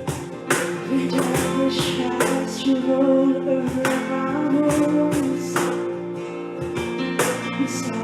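Worship music: a strummed acoustic guitar with sustained chords, with a little singing.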